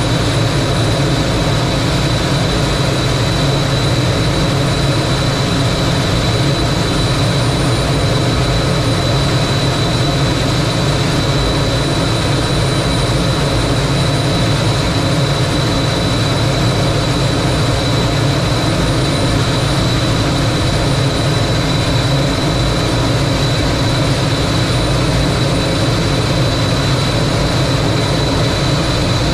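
T-33 jet trainer's turbojet engine running steadily, a constant roar with a thin, unchanging high whine over it.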